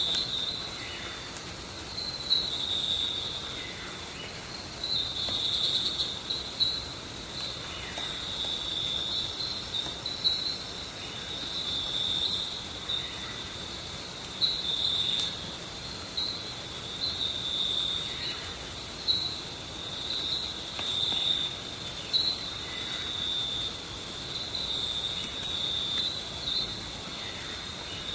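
Insects chirring in the woods: a continuous high-pitched trill that swells and fades every second or two.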